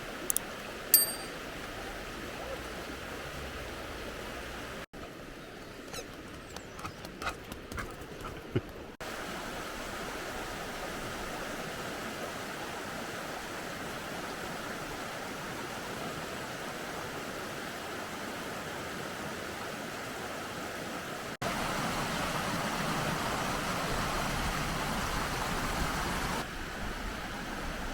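Steady rushing of running water, in several short clips cut together, the level jumping at each cut. A few brief high chirps and clicks sound in the first several seconds.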